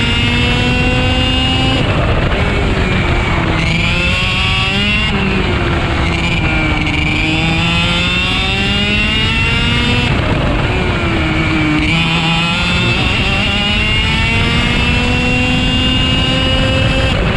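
IAME two-stroke kart engine at full racing pace, its pitch climbing steadily on each straight and dropping sharply about five times as it brakes into corners.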